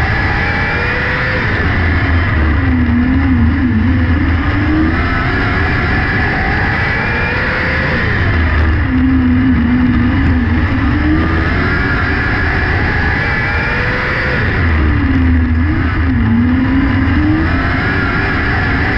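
600cc micro sprint car's motorcycle engine at racing speed, its pitch climbing on each straight and dropping into each corner in a cycle that repeats about every six seconds.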